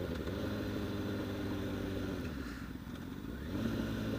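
Honda CBR1000RR sport bike's inline-four engine running steadily at low road speed. It goes quieter for about a second past halfway, then picks up again with a rising note near the end.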